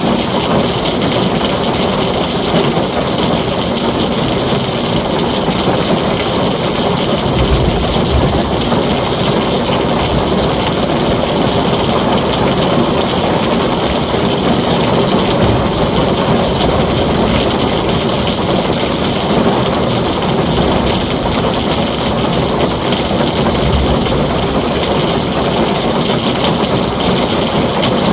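Heavy rain beating steadily on a tin roof.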